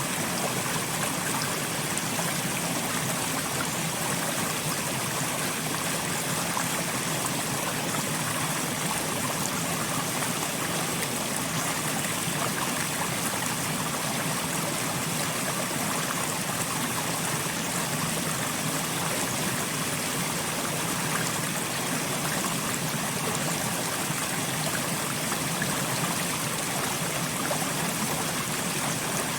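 Steady rain falling, an even, unbroken hiss of water that neither builds nor pauses.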